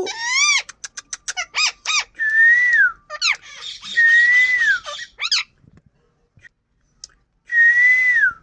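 Indian ringneck parakeet calling: a rapid run of short up-and-down squawks, then long screeches held near one pitch and dropping at the end. After a pause of about two seconds, one more long screech comes near the end.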